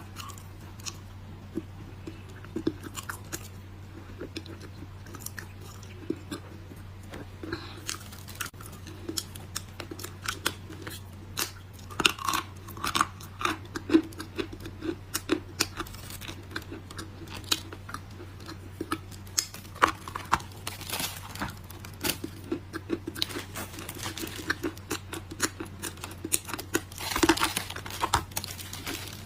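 Close-miked chewing of crunchy dry clay: many sharp, irregular crunches and bites, denser and louder in the second half, with a longer crunching burst near the end. A steady low hum runs underneath.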